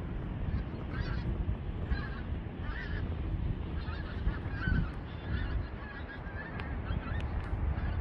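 Birds calling again and again in short calls, over a steady low rumble.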